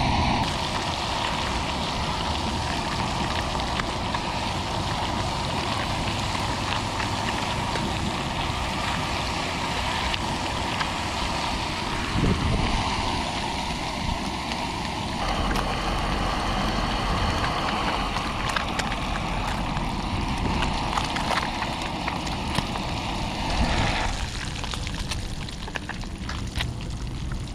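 Bluegill pieces frying in butter and onions in a small camp pot over a gas canister stove: a steady sizzle with fine crackling, easing a little near the end.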